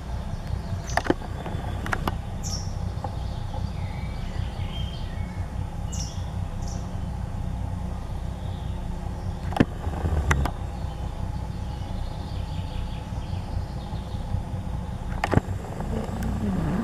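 Small songbirds giving short, high, downward-sliding chirps, four of them in the first seven seconds, with faint twittering, over a steady low rumble. A few sharp clicks stand out, the loudest about ten and fifteen seconds in.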